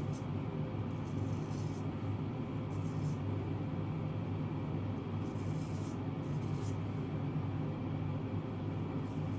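A steady low hum throughout, with a few faint, short scrapes of a straight razor drawn across lathered stubble.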